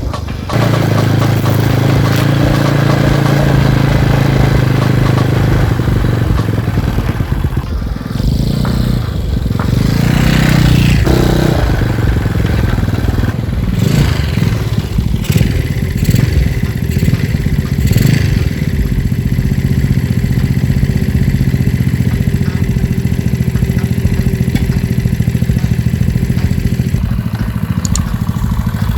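Modified Yamaha Mio automatic scooter engine running, with a thumping note likened to a klotok boat engine. The engine rises and falls several times through the middle, then settles into a steady run.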